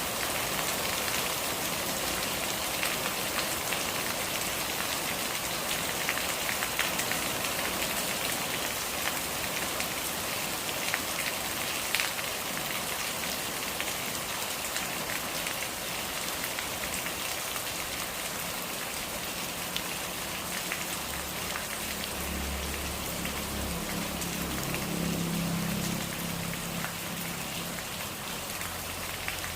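Steady rain falling, with individual drops pattering and ticking on a surface. In the second half a low hum builds and then fades.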